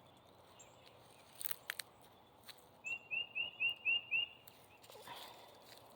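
A bird calls a quick run of six short, high, repeated notes, about four a second, lasting just over a second. A couple of sharp clicks come before it.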